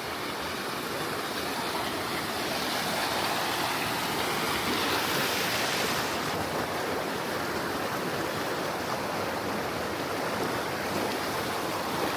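Rushing river water, a steady noisy hiss that swells a little midway.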